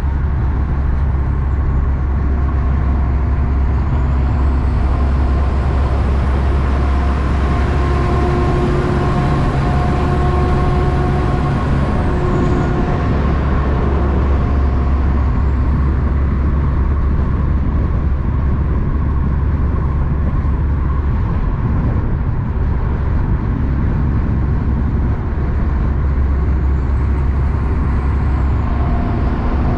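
Steady, loud road noise of heavy trucks and traffic, with a deep constant rumble. A few short whining tones come through in the middle.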